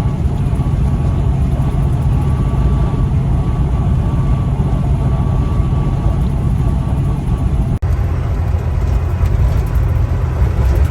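Semi truck's engine and road noise heard from inside the cab while driving at highway speed, a steady low rumble with a faint steady whine. The sound drops out for an instant about eight seconds in, then carries on.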